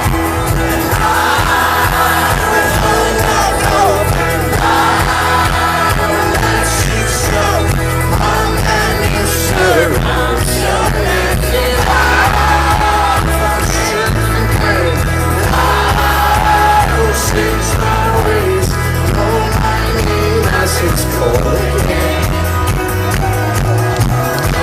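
Live folk-rock band playing loudly with a steady low beat, with voices singing over it and some crowd noise, heard from within the audience.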